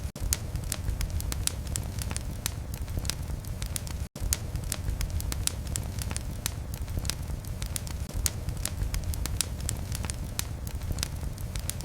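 Wood fire burning in a fireplace: a steady low rumble of flame with frequent sharp crackles and pops, several a second. The sound drops out for an instant about four seconds in.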